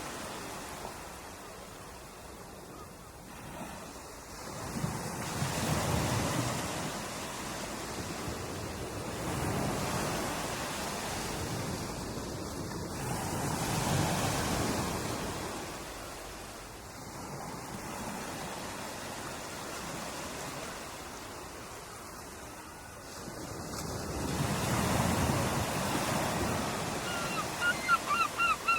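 Ocean surf: waves breaking and washing in, the rush swelling and falling away every four to five seconds. Near the end, a fast string of short bird calls starts over it.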